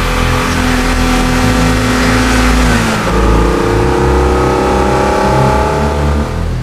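BMW E46 engine accelerating hard, rising in pitch, then dropping at an upshift about three seconds in and climbing again, until it cuts off abruptly near the end.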